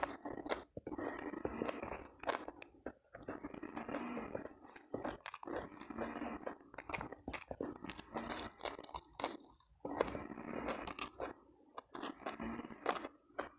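A person chewing and crunching food close to the microphones, with wet mouth sounds and crisp crackles, in runs of bites broken by short pauses.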